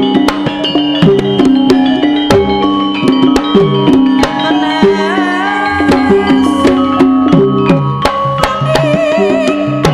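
Javanese gamelan music accompanying a lengger dance: a kendang hand drum plays a busy rhythm of strokes that drop sharply in pitch, over ringing metallophone tones. A wavering melodic line comes in near the end.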